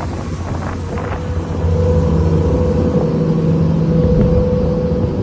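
A steady engine drone with a low hum and a held tone, getting louder about two seconds in, with wind buffeting the microphone.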